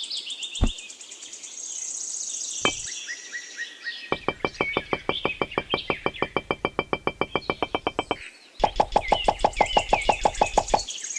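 Rapid, even knocking at about seven strikes a second, twice, with a short break between runs; the second run is louder. Before that there are two single knocks, and birds chirp throughout.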